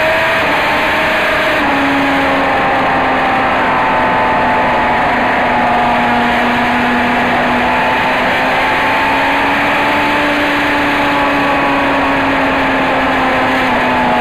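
Race car engine heard onboard, held at high revs on track with a steady, slowly wavering note over a rushing haze of noise. The pitch dips a little near the end as the revs come down.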